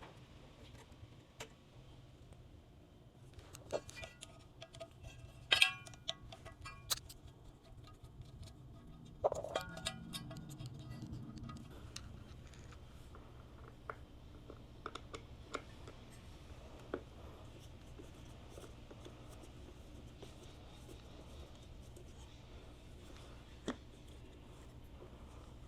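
Hand tools and metal parts clinking and tapping during work on a motorcycle, with two louder ringing metal clanks about five and nine seconds in, over a low steady hum.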